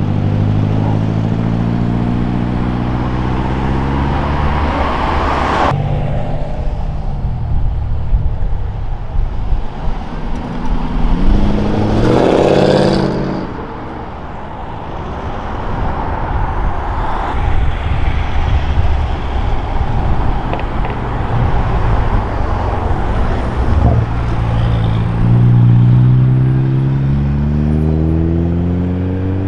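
Modified cars driving away one after another, engines rising in pitch as they accelerate. A quick rise and fall of engine pitch comes near the middle.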